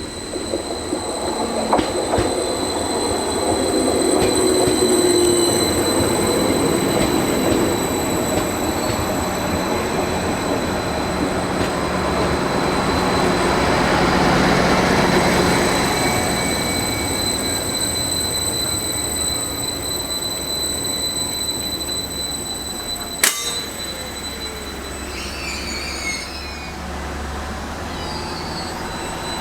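A train running past on the rails, with a long continuous rumble that swells twice and a steady high whine. A single sharp click comes about two-thirds of the way through.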